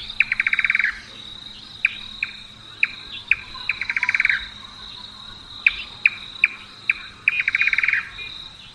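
Indian nightjar calling: a few spaced, knocking notes that speed up into a rapid run of clicks, the call likened to a stone skipping on a frozen lake, given three times. A steady high tone runs behind.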